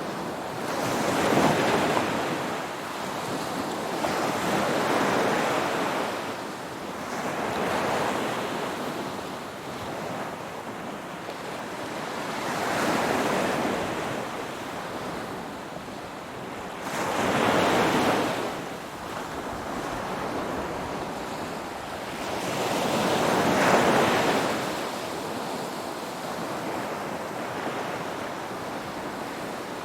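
Ocean waves breaking and washing on a shore, the noise swelling with each wave about every five seconds, the loudest breaks near 2, 18 and 24 seconds in.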